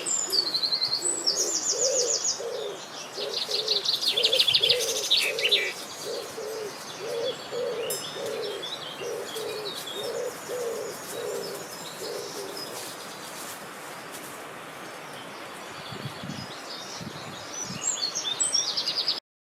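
Birdsong: small birds singing high trills and chirps, with a low cooing call repeated over and over for about ten seconds. The sound stops abruptly near the end.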